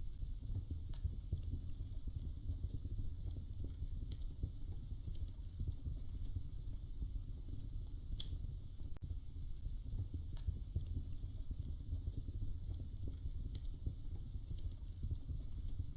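Wood fire in a fireplace crackling: a steady low rumble under dense fine crackle, with a sharp pop every few seconds.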